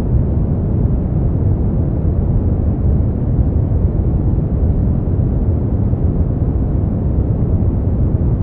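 Steady brown noise: a deep, even hiss weighted toward the low end, unchanging throughout.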